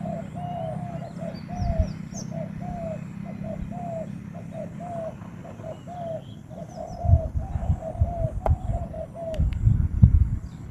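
A bird calling over and over, a short rising-and-falling note about twice a second, with fainter high chirps from other birds. From about seven seconds in, low rustles and bumps come in, louder than the calls.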